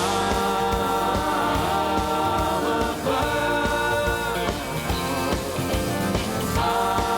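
Live band music with singing voices over a steady drum beat, long notes held for a second or more.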